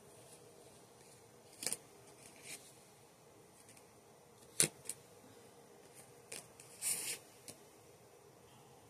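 Scattered small handling noises: a few short clicks and soft rustles, the sharpest about halfway through and a longer rustle near the end, over a faint steady room hum.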